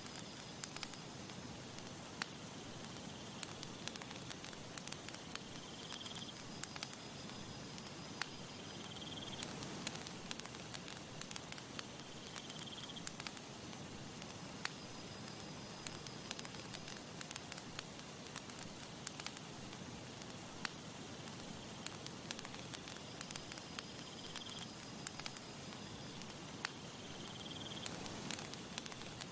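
Campfire crackling steadily, with many small sharp pops over a soft constant hiss. A short high tone recurs every few seconds.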